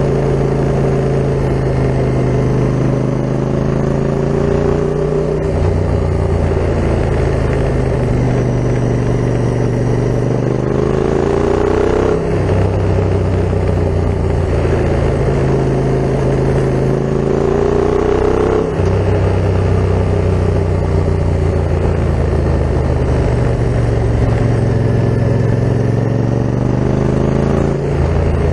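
Yamaha MT-07's parallel-twin engine running through an Akrapovic full carbon exhaust as the bike is ridden. Twice the revs climb and then drop sharply with a gear change, the second time about two-thirds of the way through.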